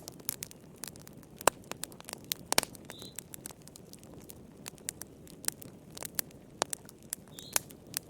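Fireplace fire crackling: irregular sharp pops and snaps, some loud and some faint, over a low steady rumble of the flames. A short high chirp sounds twice, about three seconds in and near the end.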